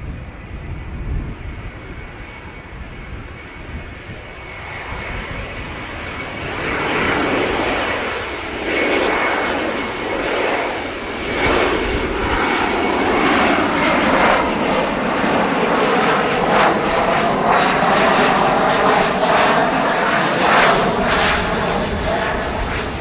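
Boeing 737-500 jet airliner's CFM56 turbofan engines, growing louder about six seconds in and then staying loud, with a whine that glides in pitch over the noise.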